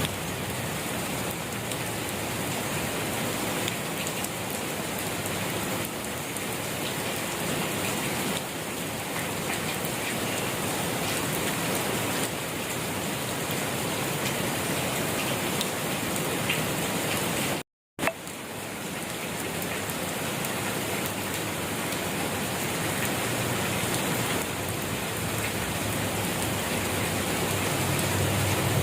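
Steady rain falling on a surface, a dense even hiss of drops. It cuts out to silence for a split second about two-thirds of the way through, then comes straight back.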